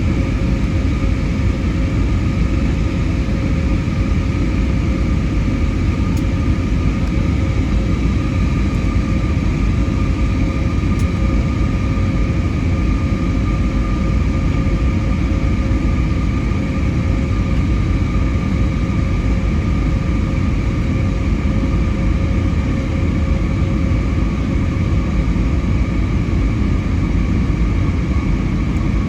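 Steady cabin noise of an Airbus A320neo (A320-251N) with CFM LEAP-1A turbofans, heard from inside the cabin: a loud, even low rumble with a few steady whining tones above it.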